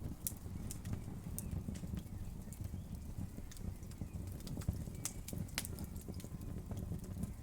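Wood fire crackling: irregular sharp pops and crackles over a steady low rumble of the burning fire.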